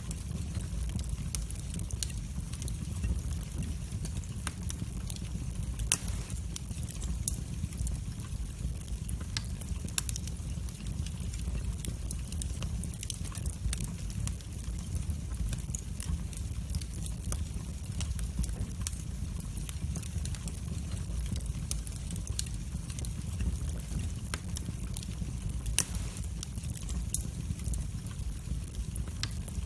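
Wood fire in a fireplace crackling: irregular sharp pops and snaps over a steady low rumble of the flames, with two louder pops, one about six seconds in and one near the end.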